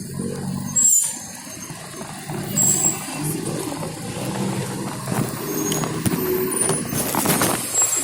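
Road traffic noise with several brief high-pitched squeals.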